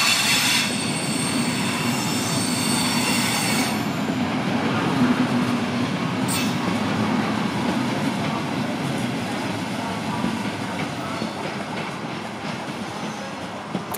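Passenger coaches rolling slowly past. For the first few seconds their wheels squeal on a curved track in high ringing tones that fade away, then the coaches run on with a steady rumble and clatter of wheels on rails that slowly grows quieter toward the end.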